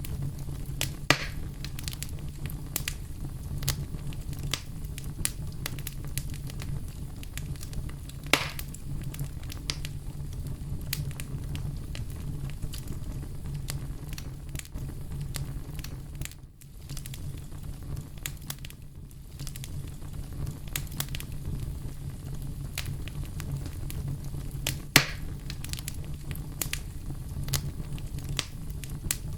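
Bonfire crackling and popping over a steady low rumble of burning. Louder single pops come about a second in, at about eight seconds and near the end, with a brief lull a little past the middle.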